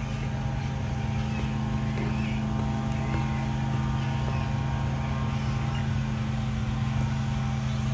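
Steady low mechanical drone, like an engine or motor running without change, with a few faint short chirps above it.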